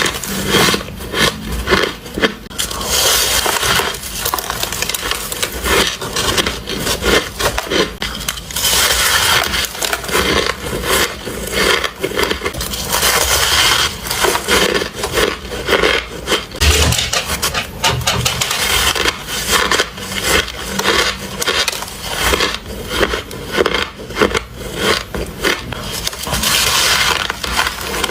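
White ice being bitten and crunched between the teeth close to the microphone: a dense, continuous run of sharp crunches and cracks.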